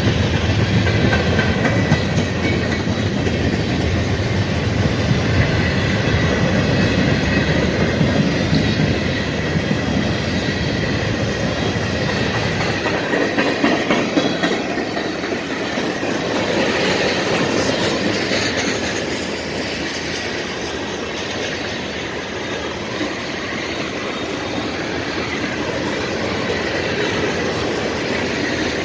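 CSX mixed freight train passing: a deep locomotive engine rumble for roughly the first dozen seconds, then the freight cars rolling by with wheels clicking over the rail joints and a thin, steady wheel squeal.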